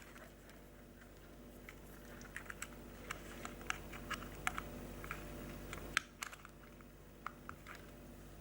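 Irregular small plastic clicks and taps as miniature lighting plugs and wires are handled and pushed into connectors. A faint steady low hum runs underneath.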